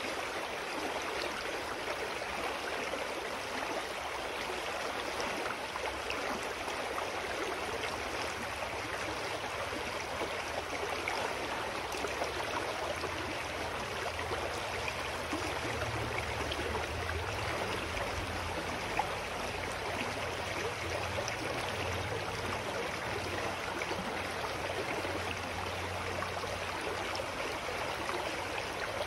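Clear mountain stream flowing steadily, a continuous rush and babble of water, with a faint low hum underneath through the middle.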